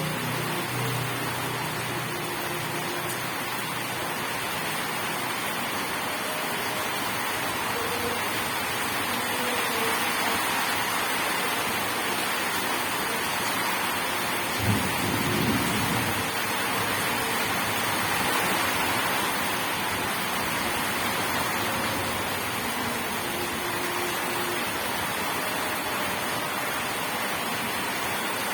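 Steady rain falling, with one short, low clap of thunder about halfway through.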